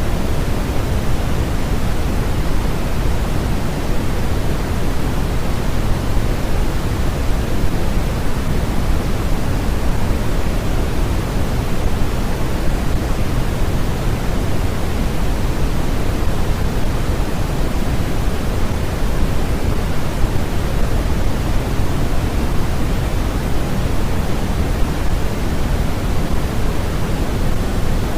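Steady, unchanging generated white noise, a constant hiss weighted toward the low end so it sounds deeper than pure hiss, with no rhythm or events.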